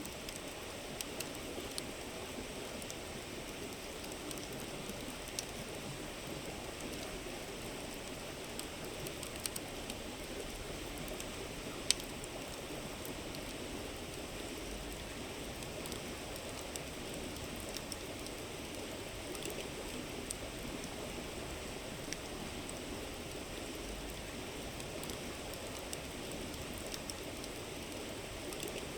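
A river's steady murmur, with a wood campfire crackling in scattered sharp pops over it; one pop about twelve seconds in is louder than the rest.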